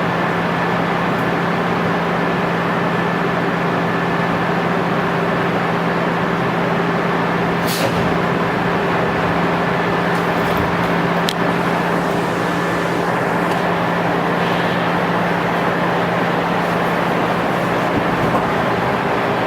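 JNR/JR 103 series resistance-controlled electric multiple unit running at a steady speed, heard from on board: a steady motor and running-gear hum over wheel and track noise. Two sharp clicks come about eight and eleven seconds in.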